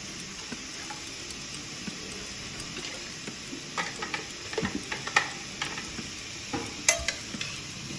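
Chicken pieces and vegetables frying in a pressure cooker with a steady sizzle. From about four seconds in, a utensil stirring them scrapes and knocks against the pot several times.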